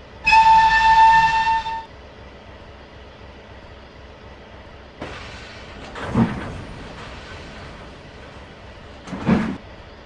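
A locomotive whistle sounds once for about a second and a half, a single clear note, then two heavy whooshing blasts come a few seconds apart, like the slow first exhaust beats of a steam locomotive getting under way.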